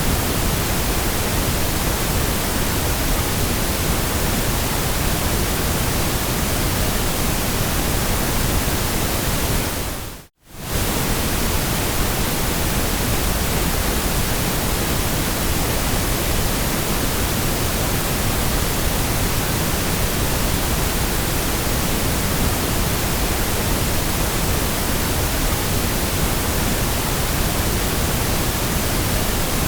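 Steady white noise, an even hiss spread across all pitches with no tones or rhythm. About ten seconds in it fades quickly to near silence and straight back up within about a second.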